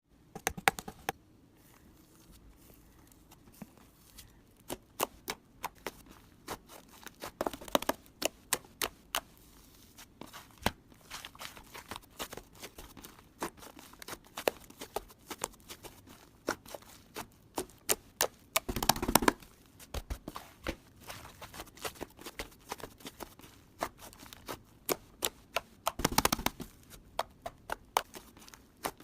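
Irregular sharp clicks and taps, close by, with denser rustling bursts about 19 and 26 seconds in.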